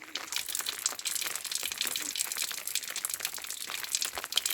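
Steady rain pattering: a dense, irregular crackle of drops that goes on without a break.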